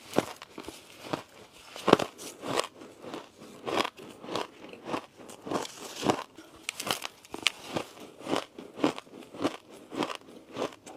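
Ice being chewed: a steady run of crunches, roughly two a second, with a louder, sharper bite about two seconds in.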